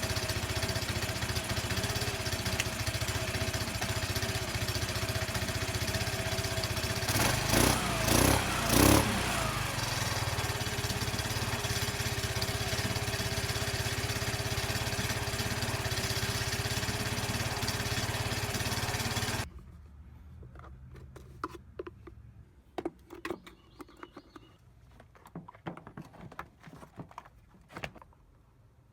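Honda Elite 250 scooter's single-cylinder engine running at idle, blipped three times in quick succession about a quarter of the way in. About two-thirds of the way through the engine sound cuts off suddenly, leaving only faint scattered clicks and knocks.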